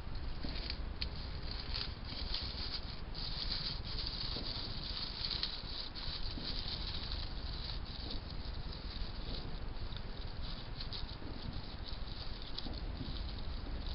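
A hedgehog rustling and crackling through dry nesting material as it builds its nest: a steady patter of small crackles, busiest a few seconds in.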